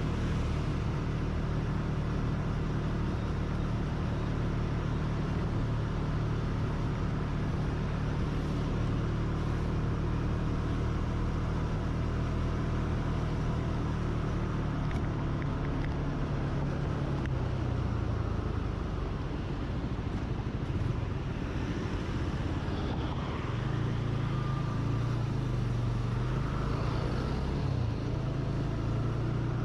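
Engine of a vehicle being ridden, running on the road with a steady low hum and road noise. The engine note drops about two-thirds of the way in as it slows, then picks up again near the end.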